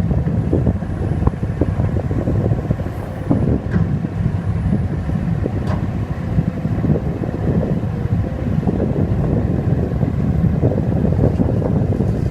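Heavy diesel engines of a Sumitomo SH210F hydraulic excavator and a ten-wheel dump truck, running steadily under load during loading, with strong wind buffeting the microphone.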